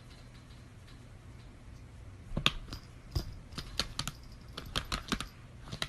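Irregular sharp clicking and tapping, several taps a second, starting about two seconds in.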